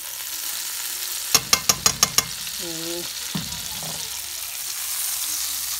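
Butter and oil sizzling around a rice tikki frying in a non-stick pan, a steady hiss, with a quick run of about six clicks a little over a second in as a fork taps against the pan.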